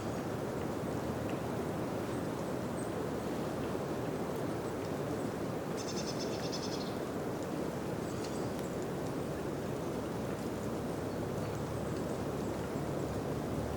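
Wind blowing through a birch forest, a steady rushing of branches and leaves. About six seconds in, a small bird gives a brief rapid high trill, with a few faint chirps after it.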